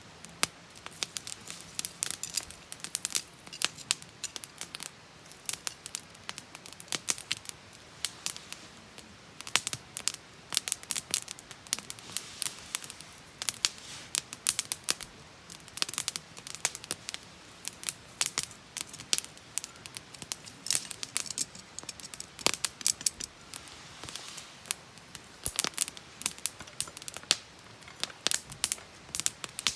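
Wood campfire crackling and popping: sharp, irregular snaps several times a second over a faint hiss.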